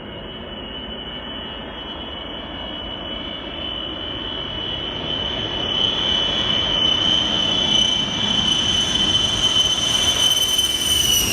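Aircraft engines at full takeoff power on an overloaded plane's takeoff roll: a steady high whine over a broad engine rush, growing steadily louder as the plane approaches. The whine dips slightly in pitch at the very end.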